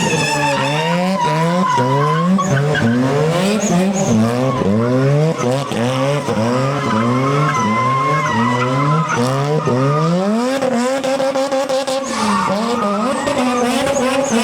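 A high-performance car engine revving up again and again in quick rising sweeps, over a steady tyre squeal, typical of a car being driven sideways on the throttle; the revs hold steadier for the last few seconds.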